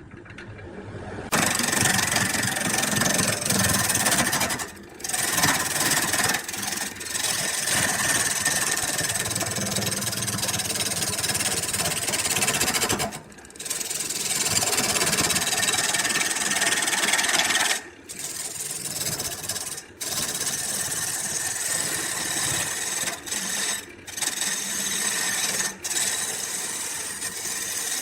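A woodworking power tool running under load, cutting wood, with a loud, harsh noise. It starts about a second in and cuts out briefly several times.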